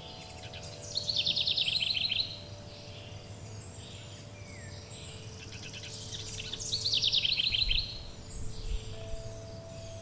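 A songbird sings two phrases about four seconds apart, each a rapid run of high notes falling in pitch and lasting about a second. Beneath it, wind chimes hold steady ringing tones that change pitch near the end, over a low background hiss.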